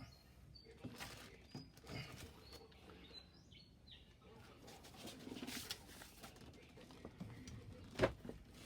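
Scattered clicks and knocks of hand tools working on truck battery hardware, with one sharper knock about eight seconds in. Faint short bird chirps sound in the background during the first few seconds.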